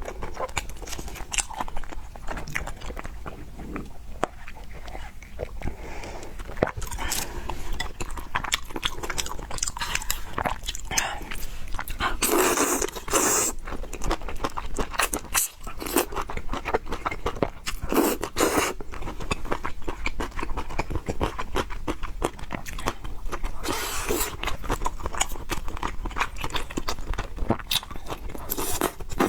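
Close-miked chewing and biting while eating fried noodles with pork: many small wet clicks and crunches, with a few louder, longer noisy bursts about twelve, eighteen and twenty-four seconds in.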